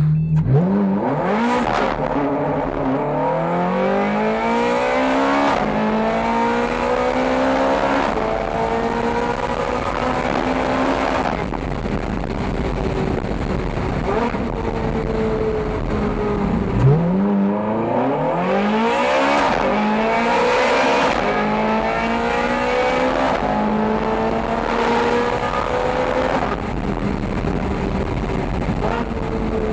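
Ferrari 430 Scuderia's 4.3-litre V8, fitted with aftermarket headers and exhaust, accelerating hard through the gears twice: the revs climb, drop back at each quick upshift, and climb again.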